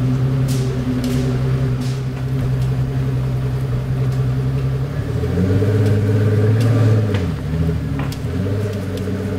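Pagani Huayra's twin-turbo Mercedes-AMG V12 idling steadily. About five seconds in, the engine note changes, rising a little and dropping back near seven seconds before it settles into a steady idle again.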